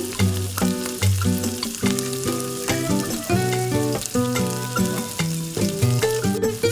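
Food sizzling and crackling in oil in a miniature frying pan, over background music with short repeated notes and a moving bass line.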